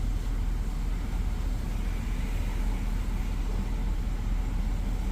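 A truck's engine idling, a steady low rumble heard from inside the cab.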